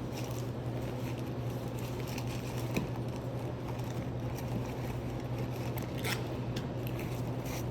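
Rummaging through a purse: scattered rustles and small clicks of items being moved about, with a sharper click about three seconds in and another about six seconds in, over a steady low hum.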